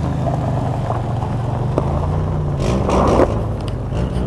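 A car engine running steadily, from a derby car in a backyard crash-up derby, with a brief louder rough noise about three seconds in.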